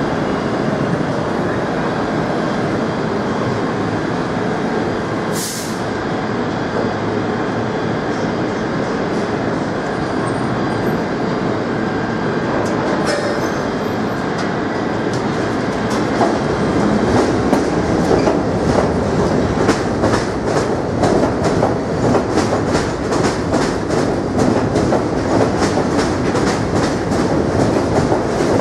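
R32 subway train running through the station with a steady rumble of wheels on the rails. About halfway through it gets louder, and its wheels start clacking rhythmically over the rail joints, several times a second.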